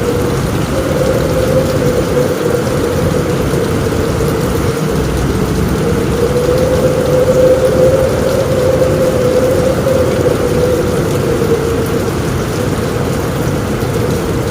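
Steady heavy rain drumming on a roof, with a low rumble underneath and a steady, slightly wavering tone of strong wind running through it.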